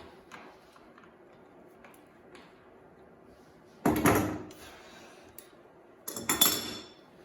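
Two loud clattering knocks from building work, about two seconds apart, the second with a brief metallic ring.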